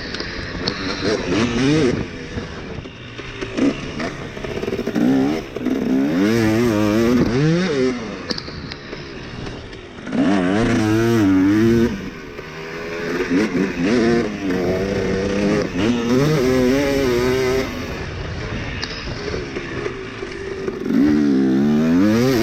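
Dirt bike engine revving hard and easing off over and over, its pitch climbing and dropping as the throttle is worked.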